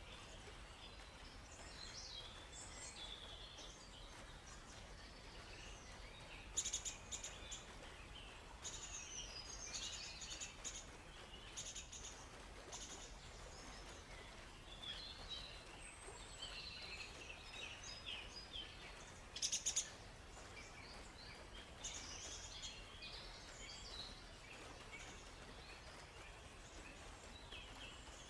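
Several birds chirping and singing in short, high calls over a faint steady background noise. Two louder, brief, rapid-fire bursts stand out, about seven seconds in and again near twenty seconds.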